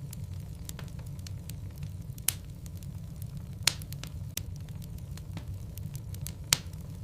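Wood fire burning in a fireplace: a steady low rumble of the flames with scattered crackles and sharp pops from the logs, three loud pops standing out in the middle and near the end.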